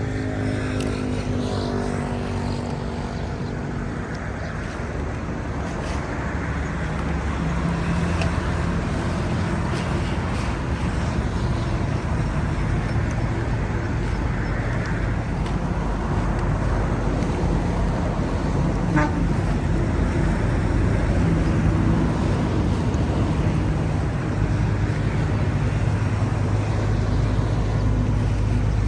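Street traffic: motor vehicles running with a steady low rumble, one passing near the start with its engine pitch falling away.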